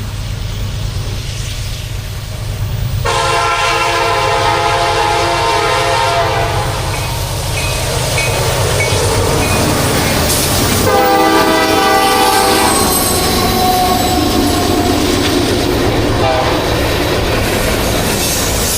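Freight train led by a CSX EMD SD70MAC diesel locomotive, with three engines running, its air horn sounding two long chords about 3 seconds and 11 seconds in over the steady rumble of the diesels.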